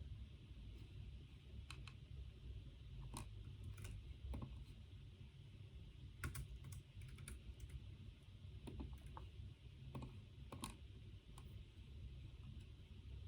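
Faint typing on a computer keyboard: scattered light key clicks in irregular bursts, over a steady low room hum.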